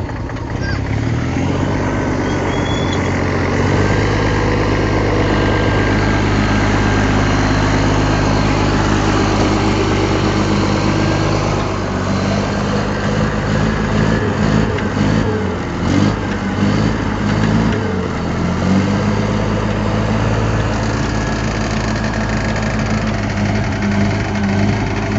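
Heavy earthmoving machine's diesel engine running steadily, its note dipping and rising for a few seconds in the middle before settling again.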